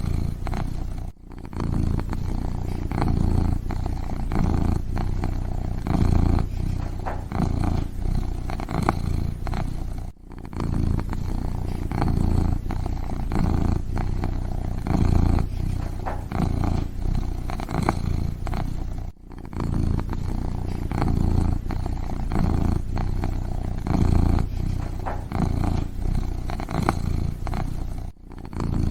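Kitten purring close up, a steady low rumble that swells and eases about once a second with its breathing. It breaks off briefly about every nine seconds.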